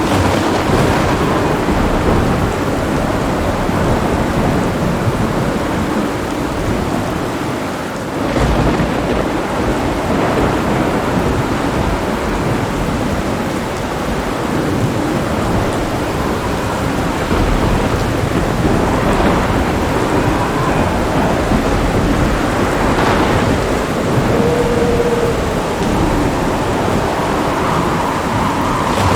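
Thunderstorm: heavy rain falling steadily with thunder rumbling under it, and a fresh rumble swelling about eight seconds in.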